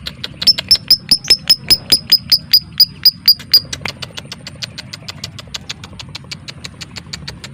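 Lovebird giving a long run of sharp, rapid ticks, about five or six a second. The ticks are loud with a high ringing note on each for the first three and a half seconds, then carry on fainter.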